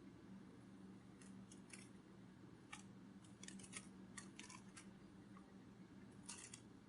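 Near silence: a faint steady low hum with scattered faint clicks and ticks, a few of them in quick clusters.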